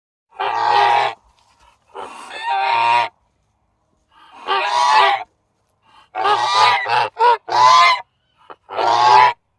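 Goose honking: a series of loud honks with short silences between them, one every second or so, with a quick run of three about two-thirds of the way through.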